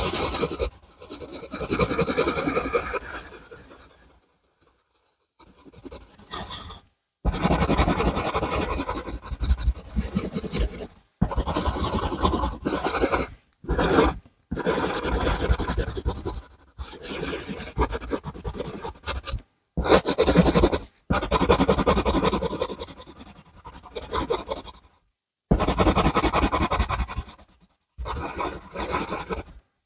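A drawing or colouring tool scratching across paper in quick repeated strokes. It comes in bursts of a few seconds, each cut off abruptly into silence.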